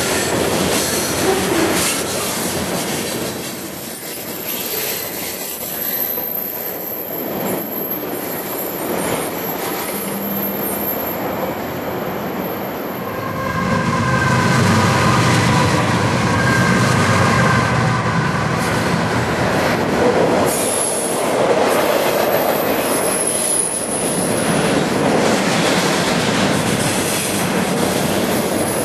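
Freight train rolling past close by, the steady rumble and clatter of tank car wheels on the rails. About halfway through, diesel locomotives pass with a louder, deeper engine rumble, then double-stack container cars roll by, with brief high wheel squeals on the curve.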